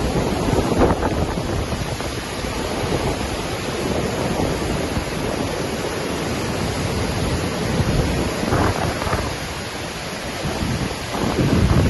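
Waterfall in Iceland rushing steadily, a deep roar of falling water, with wind buffeting the microphone in gusts.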